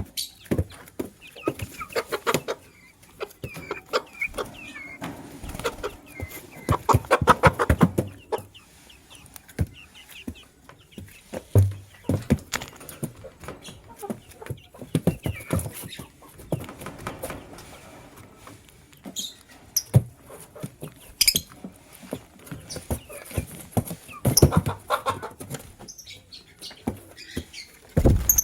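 Lovebirds chattering in bursts of short chirps and clicking calls, loudest about seven seconds in and again near the end.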